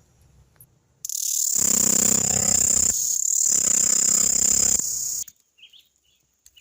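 Male cicada singing: a loud, harsh, high buzz that starts about a second in, dips briefly in the middle, and cuts off suddenly after about four seconds.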